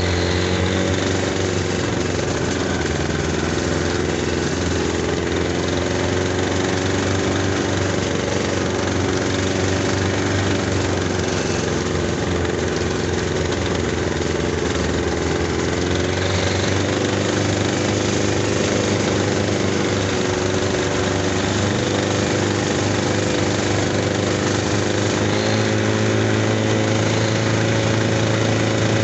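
Buran snowmobile's two-stroke twin engine running steadily at moderate speed, its pitch wavering slightly up and down. The engine is new and still being run in.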